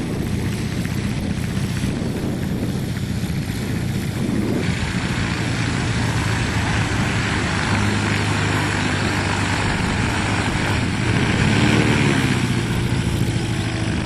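Propeller airplane engine running steadily, with a wider rush of propeller and engine noise coming in about four and a half seconds in and growing loudest near the end.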